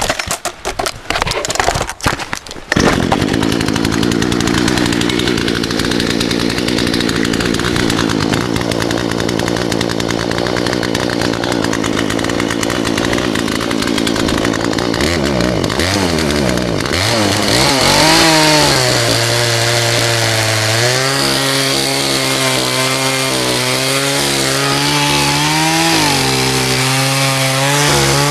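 Chainsaw starting about three seconds in and then running at high speed. In the second half its pitch drops and wavers as the chain bogs down cutting through a fallen tree trunk.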